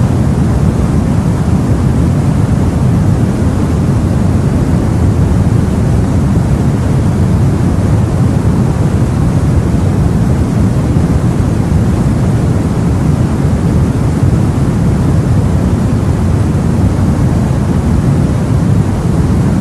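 Steady, deep rumbling rush of sea and wind heard aboard a boat, even throughout with no distinct waves or splashes standing out.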